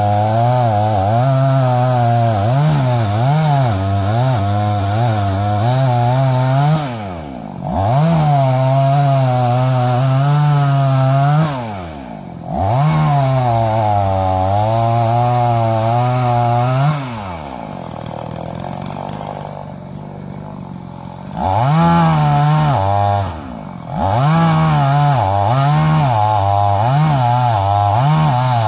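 Tengchang 45cc two-stroke chainsaw cutting wood at full throttle, its engine pitch wavering under load. The throttle drops off briefly twice, then the saw idles for a few seconds before revving back into the cut.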